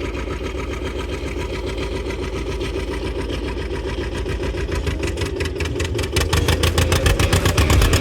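An antique tractor engine running with a steady chug of firing pulses, growing louder toward the end.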